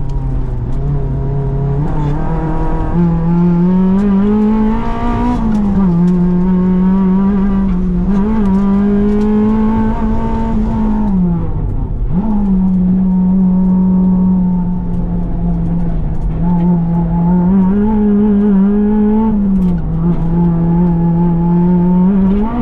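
Honda Integra Type R DC5's K20A 2.0-litre inline-four running hard at high revs, heard inside the cabin. Its pitch climbs, holds and falls again several times through the lap, with a sharp dip and quick recovery about halfway through.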